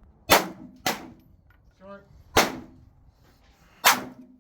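Four gunshots: two about half a second apart, then two more at roughly a second and a half apart, each with a brief echo after it. Between the shots a voice calls "short", spotting a round that landed short of the target.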